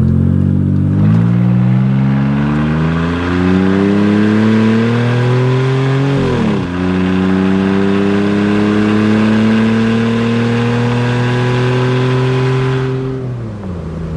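2012 Jeep Wrangler's 3.6-litre Pentastar V6, its exhaust cut off right after the catalytic converters, running very loud while accelerating through its 5-speed automatic. The engine pitch climbs, drops at an upshift about six seconds in, climbs again more slowly, then falls away near the end.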